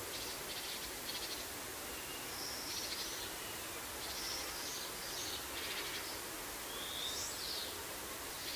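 Bird calls: a scattered series of short, high chirps and buzzy notes with a few sliding whistles, the clearest pair of sliding notes about seven seconds in, over a steady hiss.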